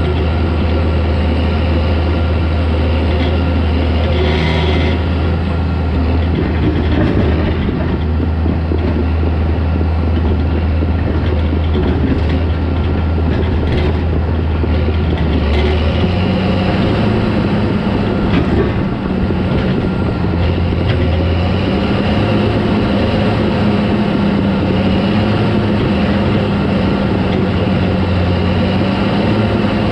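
Caterpillar D4 crawler tractor's diesel engine running loudly and steadily while it works. About sixteen seconds in the engine note changes: the deep drone gives way to a higher, wavering tone.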